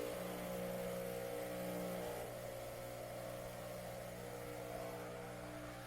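Breville Barista Express espresso machine brewing a shot, its vibratory pump giving a steady, much louder buzzing hum.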